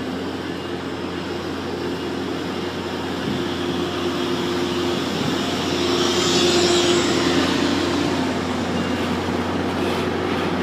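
Tri-Rail commuter train departing, with its BL36PH diesel locomotive running under load as it pushes the train past. Steady engine tones over rolling noise, growing louder to a peak about six to seven seconds in as the train goes by, then easing slightly.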